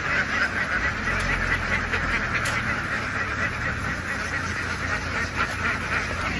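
A large flock of domestic ducks quacking all at once, a dense unbroken chatter of many overlapping calls, with a low engine hum underneath.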